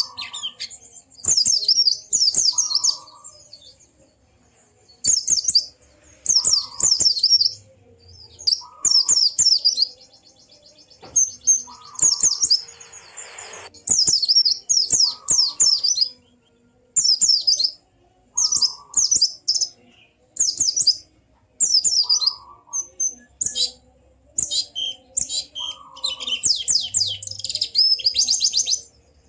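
Pleci (white-eye) singing: short bursts of high, rapid chirping repeated every second or two, each with a fainter lower note beneath.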